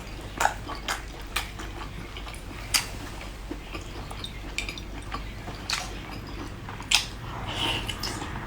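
Close-miked chewing and biting of seafood, with about half a dozen sharp clicks scattered through it, over a faint steady low hum.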